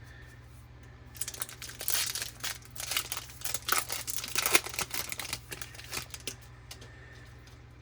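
Foil wrapper of a 2020 Topps Series 1 baseball card pack crinkling and tearing as it is opened by hand, a dense crackle from about a second in that dies away near the end.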